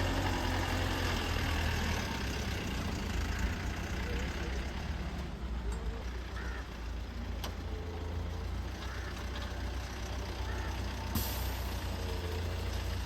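Heavy diesel engine running steadily with a deep rumble, with a single click partway through and a hiss starting near the end.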